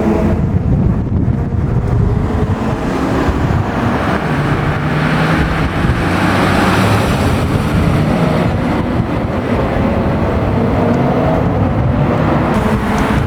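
Classic car engines running, their exhaust notes holding and shifting in pitch, over steady road and wind noise.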